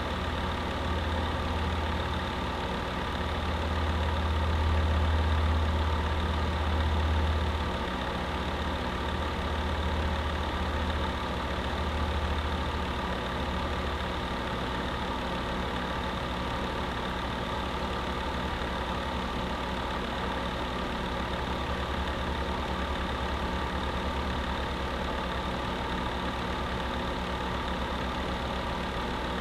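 Space heater running steadily: a continuous hum with several held tones. Its low drone swells louder a few seconds in, then settles back to an even level.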